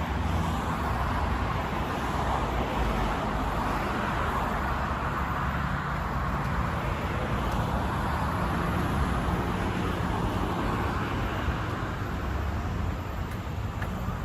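Steady hum of road traffic, a continuous wash of noise that swells and eases slightly as vehicles pass.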